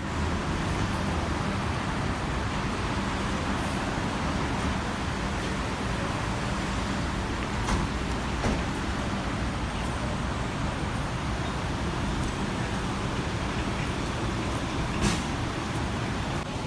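Steady running noise of a vehicle with a low engine hum, broken by a few short knocks.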